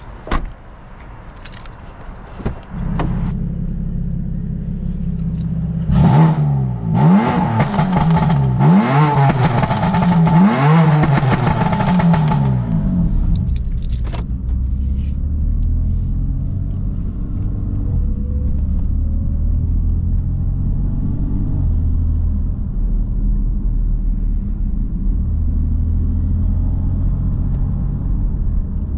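A BMW M3 F80's 3.0-litre twin-turbo inline-six, after a couple of sharp clicks, comes in at a steady low idle. About six seconds in it is blipped through a quick string of rising and falling revs, with rapid crackles from the exhaust. It then settles back into a steady low drone.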